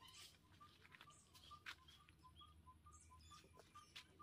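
Near silence with a faint bird in the background, repeating a short note about three times a second, and a few faint clicks.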